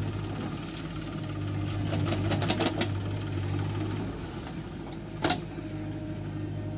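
Heavy diesel engine running steadily, with a short run of metal clatter about two seconds in and one sharp metallic knock near the five-second mark.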